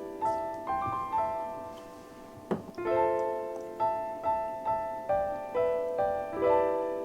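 Background music: a gentle piano melody of single notes, each struck and left to fade. There is a brief knock about two and a half seconds in.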